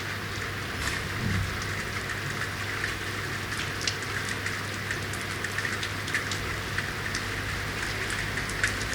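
Steady rain falling on city streets and surfaces, an even hiss with scattered close drips ticking through it, over a steady low hum.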